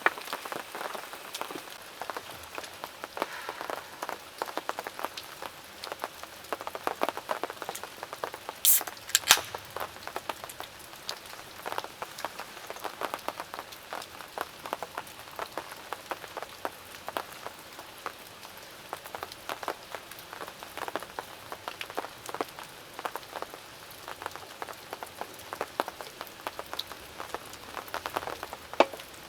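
Downpour of rain, countless drops tapping steadily on a surface, with two sharp clicks about nine seconds in.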